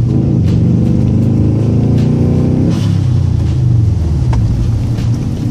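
Subaru Impreza WRX STI's turbocharged flat-four engine heard from inside the cabin, pulling up through a gear with its pitch rising, then dropping sharply about three seconds in, as at a gear change or lift-off, and running on at a lower, steadier pitch.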